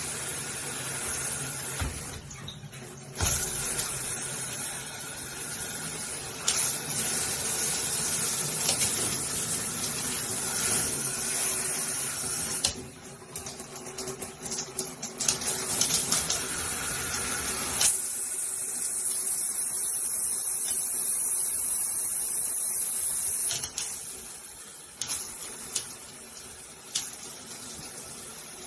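Handheld multi-mode shower head spraying water in a steady hiss. The spray's sound changes every few seconds as it is switched between spray patterns, with brief dips and clicks at the changes.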